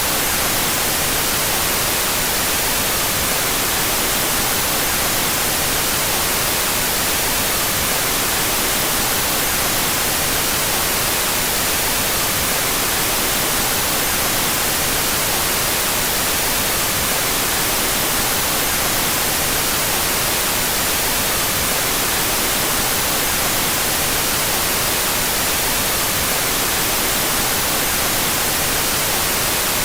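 Steady electronically generated white noise: an even, unbroken hiss weighted toward the high frequencies, with no changes.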